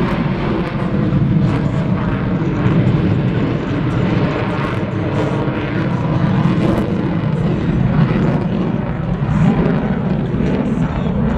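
F/A-18 Super Hornet's twin jet engines heard in flight, a loud, steady rumble of engine noise.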